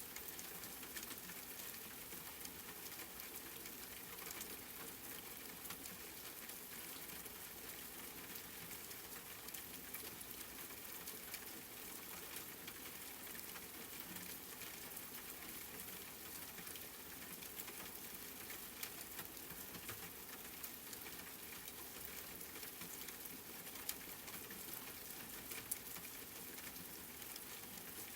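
Rain pattering steadily on a surface, a dense even hiss of drops with a few sharper drips near the end.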